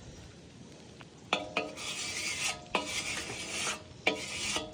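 Sheet metal being tapped and scraped by hand: a few sharp taps that ring, with a rough scraping stretch between them about two seconds in.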